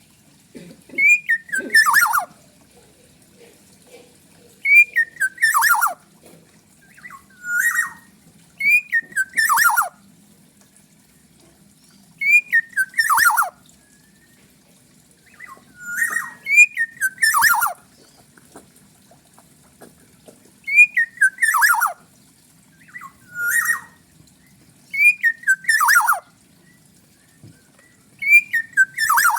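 Kepodang (black-naped oriole) calling over and over, about ten times. Each call is a short fluty whistle slurring upward, followed by a harsh, raspy note that falls in pitch, with pauses of one to three seconds between calls.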